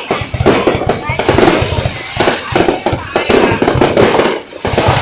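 Fireworks going off in a dense, rapid string of cracks and bangs, with a short lull near the end. Music and voices are mixed in underneath.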